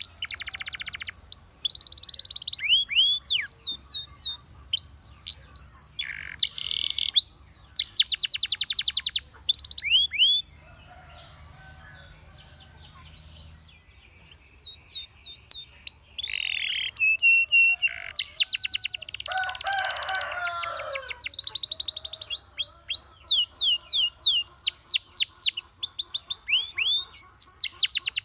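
Canary singing: phrases of rapid trills and quick downward-slurred whistles, with a pause of a few seconds near the middle.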